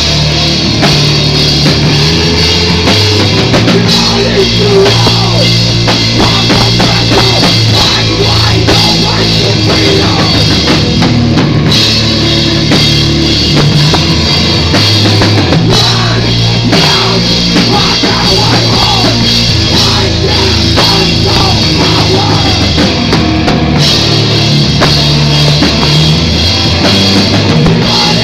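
Live rock band playing loudly, with the drum kit at the front of the mix over bass guitar and cymbals.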